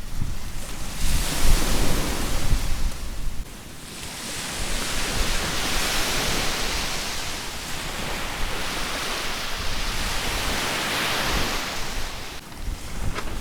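Sea waves washing onto a beach. A short surge of surf comes in the first few seconds, then a longer one builds from about four seconds in and fades near the end. Wind rumbles on the microphone at the start.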